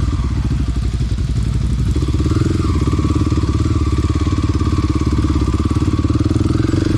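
Mini dirt bike engine running steadily as it is ridden, its pitch shifting slightly about two seconds in.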